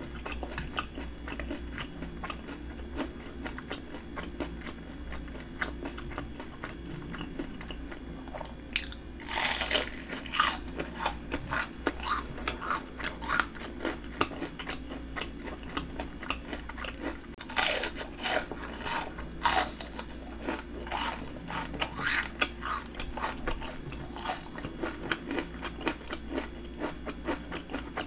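Crunchy bites and chewing of a breaded fried shrimp. Small crackles of chewing go on throughout, with louder spells of crunching about a third of the way in and again a little past halfway.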